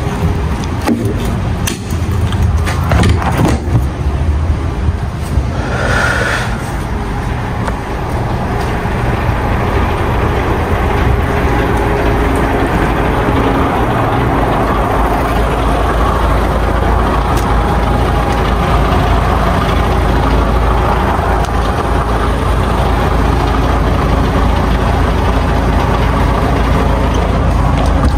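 DAF XF 510 truck's diesel engine running steadily, heard from inside the cab, with a few clicks and knocks in the first seconds and a brief hiss about six seconds in.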